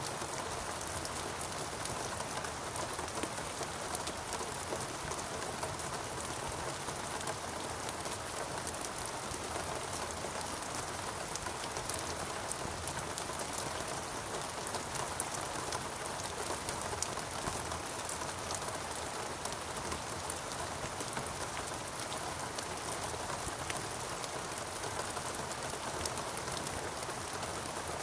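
Steady rain falling in a rainforest, a dense even patter of drops on foliage and surfaces with fine crackling close drops.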